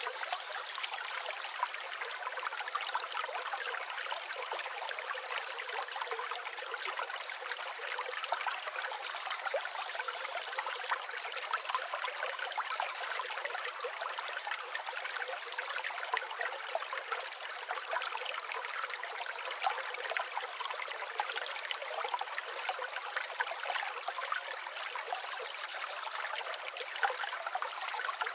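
Flowing river water, a steady trickling rush with no low rumble, and a faint short bird note or two high above it.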